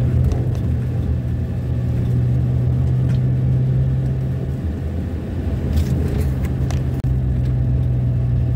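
Steady low engine hum and road rumble of a vehicle travelling along a road, with a few faint clicks about two-thirds of the way through.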